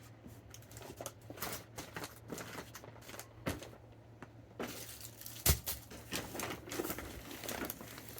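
Fireworks packaging being handled and moved: crinkling and rustling with a few light knocks, the sharpest about three and a half and five and a half seconds in.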